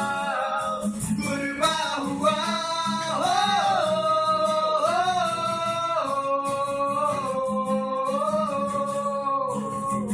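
Band music: a singer holding long wordless notes that bend slowly up and down, over guitar accompaniment.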